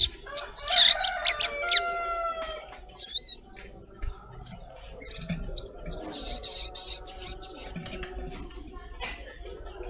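Sogon (little spiderhunter) calling: sharp high chirps, a quick falling trill about a second in, and a harsh rasping chatter from about six seconds in. This is the chattering lure call used to provoke a caged sogon into answering.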